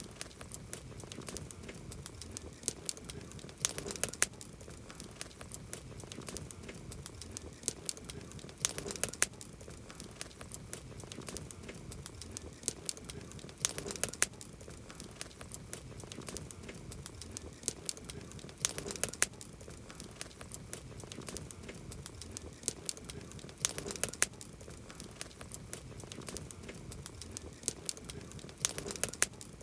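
Wood campfire crackling: a low steady hiss with frequent sharp pops and snaps, and a louder cluster of pops about every five seconds.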